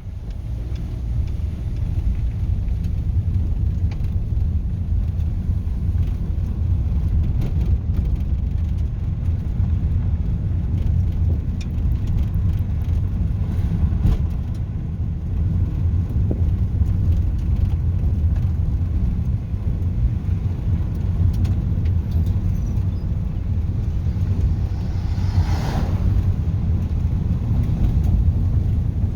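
Steady low rumble of a car being driven, with engine and road noise heard from inside the cabin. Near the end a brief louder rushing sound passes.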